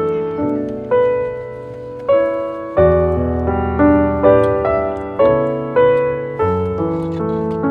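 Background music: a slow piano piece, each note struck and left to fade, with low notes underneath.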